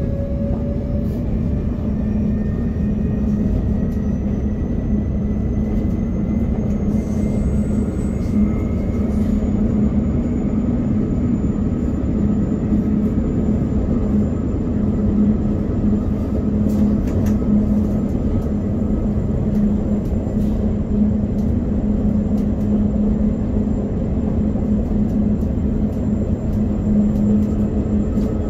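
Train running along the track, heard from inside the driver's cab: a steady rumble with a low hum. Faint whining tones rise slowly in pitch over the first several seconds, then hold steady.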